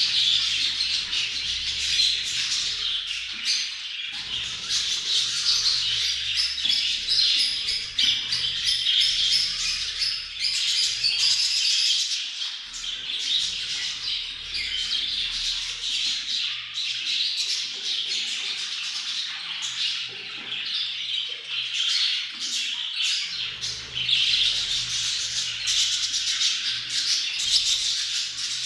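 Budgerigars chattering and warbling without pause, a dense mix of quick chirps and squawks from several birds at once.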